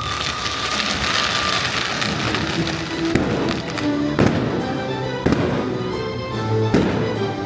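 Fireworks bursting, with a series of sharp bangs about a second apart through the second half, over orchestral music playing with the show.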